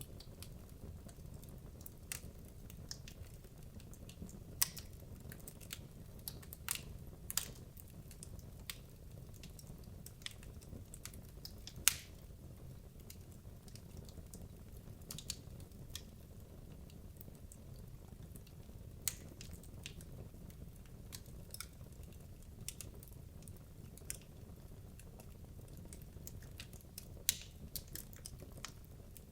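Wood logs burning in a fireplace: a steady low rumble of flame with irregular sharp crackles and pops from the wood, the loudest about twelve seconds in.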